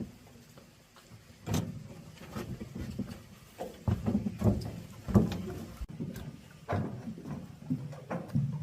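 Irregular knocks and clatter of tools and engine parts being handled, with the sharpest knock about five seconds in.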